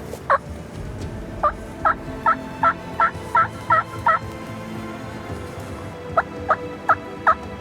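Turkey yelps: one note, then a run of eight evenly spaced yelps at about three a second, and after a pause of about two seconds four more.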